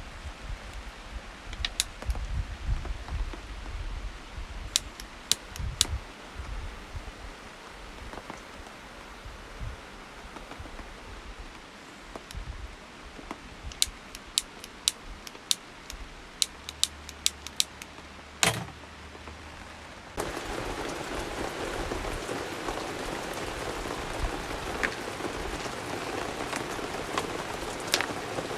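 Rain falling on a camp shelter: scattered sharp ticks of single drops at first, then about two-thirds of the way in a steady, heavier rain sound sets in suddenly.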